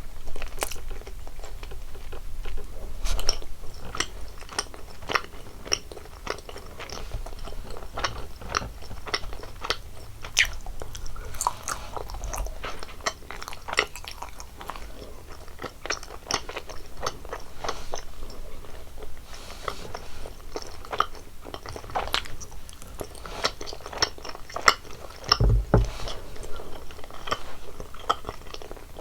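Close-miked chewing and biting of jelly candies, with many crisp crunching clicks throughout and a low thump near the end.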